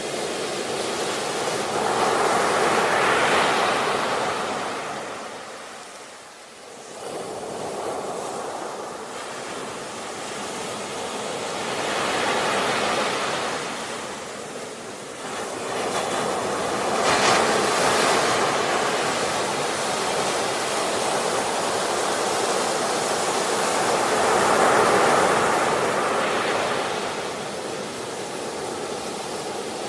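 Ocean waves breaking and washing up the shore. The hiss of the surf swells and fades as each wave comes in, several times, with a brief lull about six seconds in.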